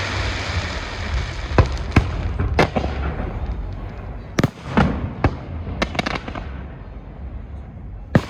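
Fireworks display: a dense crackling hiss of shells fades over the first few seconds, with separate sharp bangs going off every half second to second and one loud bang near the end.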